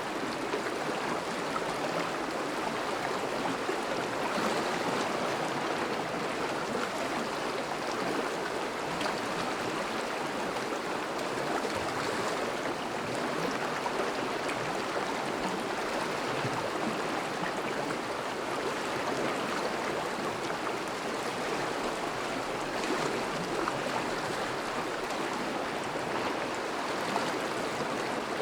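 Thawing river flowing steadily over and around ice: an even, continuous rush of moving water.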